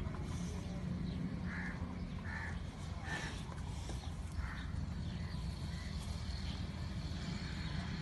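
Birds calling: several short, harsh calls about a second apart, mostly in the first half, over a steady low rumble.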